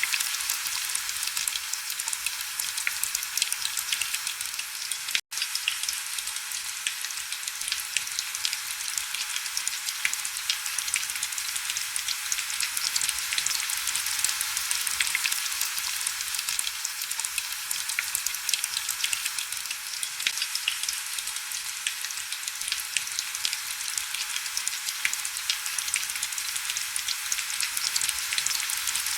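Heavy rain falling steadily, a dense hiss of fine drop ticks with no low rumble. It cuts out for a split second about five seconds in.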